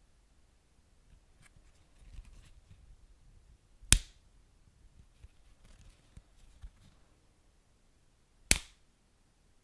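Wood fire crackling softly, with two loud sharp pops, one about four seconds in and another near the end.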